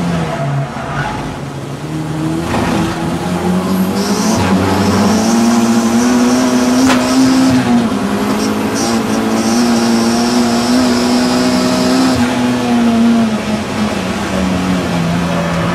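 Audi TT race car engine at racing speed. The revs climb after about two seconds, hold high through the middle, then drop near the end as the driver lifts off.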